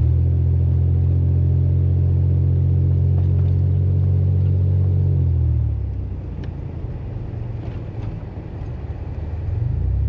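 Vehicle engine running steadily with a low, even hum. The hum drops away about five seconds in and comes back near the end.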